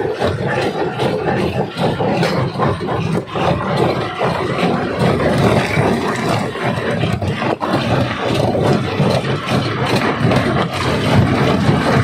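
Primary rock crusher running in a quarry: steady heavy machinery noise with frequent knocks and cracks of stone being broken.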